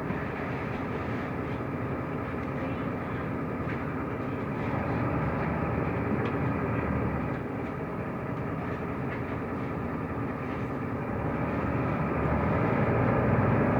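Mercedes-Benz O345 Conecto LF city bus driving, heard inside the passenger cabin: a steady rumble of engine and road noise that grows a little louder near the end.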